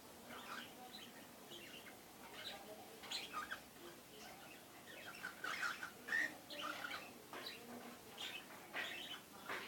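Cockatiels chirping in short, scattered calls, busiest about halfway through.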